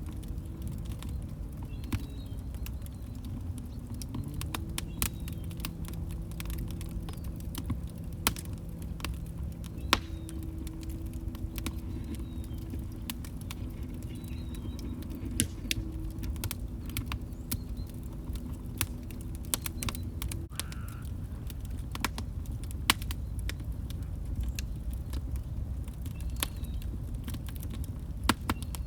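Log fire crackling, with irregular sharp pops and snaps over a low rumble. A faint low hum that steps in pitch runs under it and stops about twenty seconds in.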